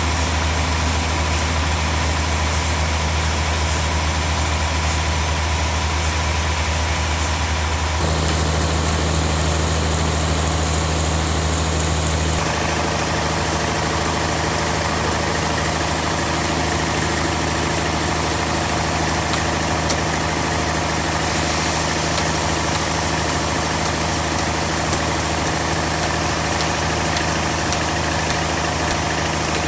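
Band sawmill machinery running steadily with a constant mechanical hum. The hum changes abruptly twice, about 8 and 12 seconds in.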